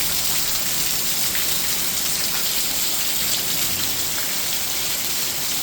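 Rain falling steadily: an even hiss with the faint patter of individual drops.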